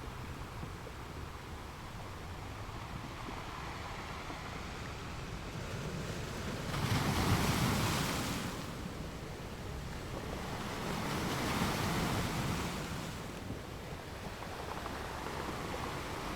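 Sea waves washing in, a steady wash of surf with two louder breakers rising and falling, the first about seven seconds in and the second about eleven seconds in.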